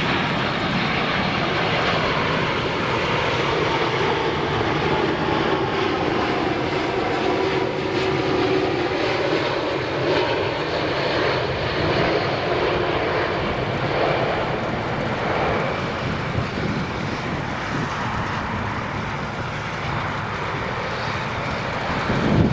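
Boeing 787-8 twin-engine jetliner on landing approach: its jet engines give a steady rushing drone with a faint whine that glides slowly lower in pitch.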